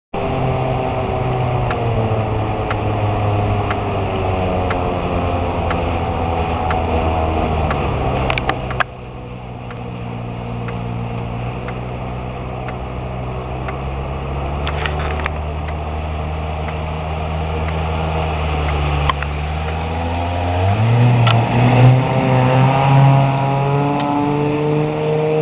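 Gar Wood speedster's 175 hp Mazda marine rotary engine running under way. Its note sinks slowly, then drops sharply about eight seconds in and runs lower and quieter for a while, before climbing again about twenty seconds in as the engine revs back up.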